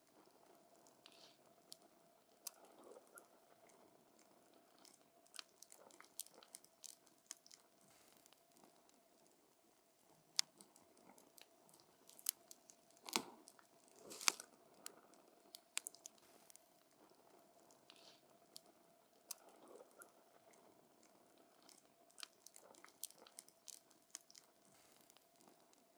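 Burning wood in a campfire crackling, with irregular sharp snaps and pops, a few louder pops near the middle, over a faint steady hum.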